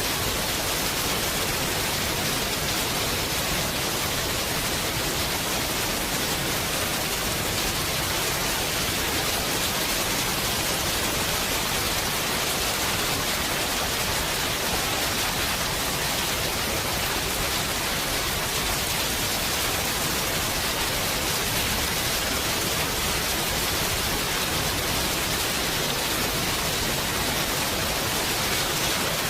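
Heavy rain falling steadily, a dense, even hiss with no thunder claps.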